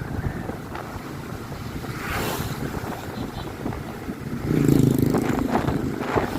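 Motorcycle being ridden, its engine running under wind noise on the microphone. About four and a half seconds in, a louder steady pitched sound holds for about a second.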